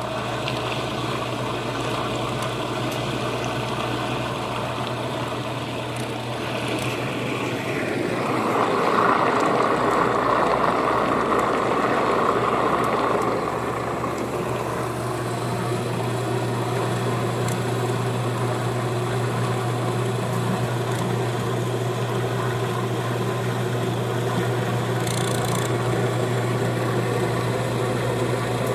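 A machine running with a steady low hum and a noisy whir, getting louder and harsher for a few seconds about a third of the way in, then settling back to its steady run.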